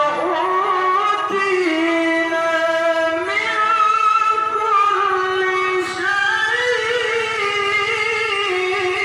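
A qari reciting the Qur'an in the melodic style, one high voice holding long drawn-out notes with wavering ornamental turns. There is a short breath near six seconds, and then the phrase carries on.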